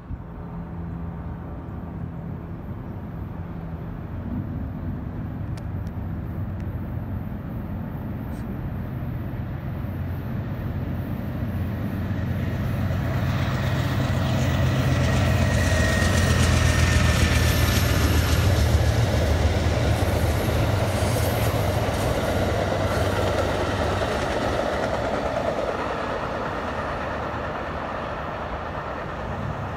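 A train passing by: a steady low rumble with a drone of the locomotive, growing louder to a peak about halfway through, with the hiss of wheels on rails, then slowly fading. A brief thin squeal sounds near the loudest point.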